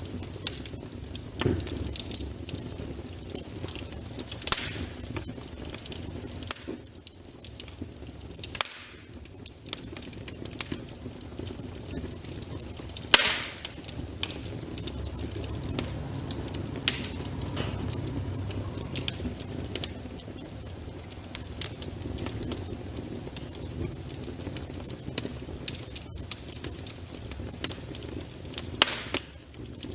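Wood fire crackling in a fireplace: irregular sharp pops and snaps over a steady low rush of flames.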